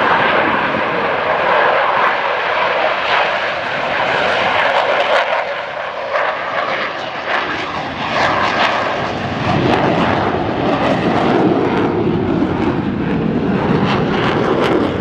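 Jet noise from the Blue Angels' solo F/A-18 Super Hornets taking off: a loud, continuous rush that swells with a deeper rumble about nine seconds in.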